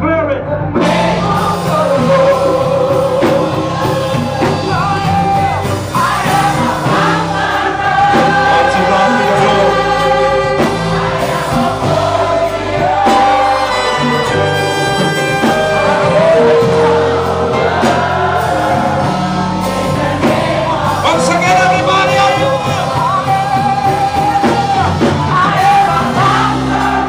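Gospel music: a choir singing over a steady bass accompaniment.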